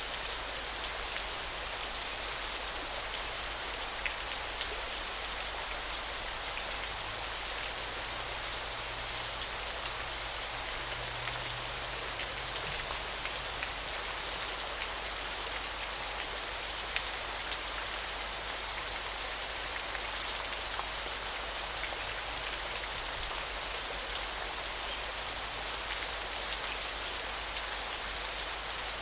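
Steady rushing and pattering of river water. A high, thin buzzing rises over it in the first half. In the second half a high call repeats about every two seconds.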